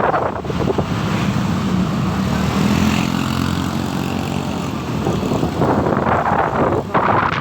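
Motorcycle engine running while riding, with heavy wind rushing over the microphone.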